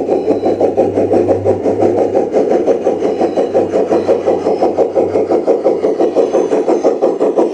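G scale model train with three locomotives running along a garden railroad track, a steady fast rhythmic clatter. A low hum under it fades out about five and a half seconds in.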